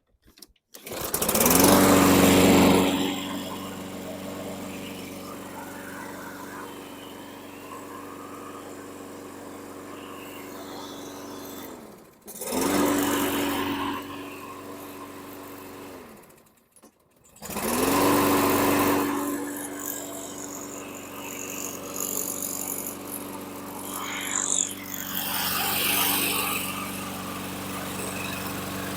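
Single-cylinder engine of a Husqvarna LC221A all-wheel-drive walk-behind mower starting and running steadily. It cuts out twice when the bail bar is let go, and is started again each time: the bail-bar engine stop is working.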